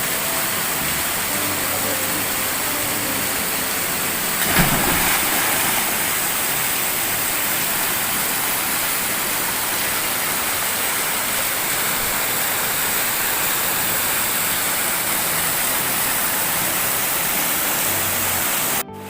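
Waterfall crashing into its pool: a loud, steady rush of falling water, with a brief louder surge about four and a half seconds in. It cuts off suddenly just before the end.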